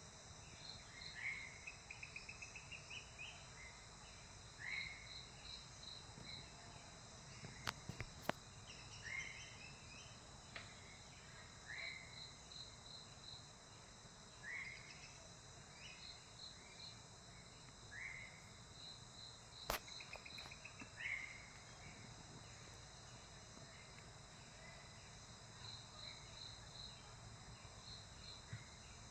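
Faint insect chorus, a steady pulsing trill, with a bird repeating short rising calls every couple of seconds and a quick run of rapid notes near the start. A few sharp clicks break in, twice near the middle and once about two-thirds through.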